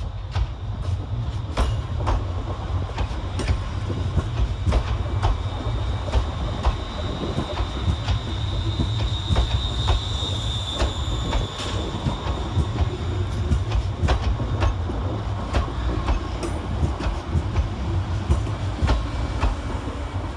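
ScotRail Class 380 electric multiple unit running slowly into a terminal platform: a steady low rumble with irregular clicks of the wheels over rail joints and pointwork. A thin, high wheel squeal rises and fades from about six to twelve seconds in.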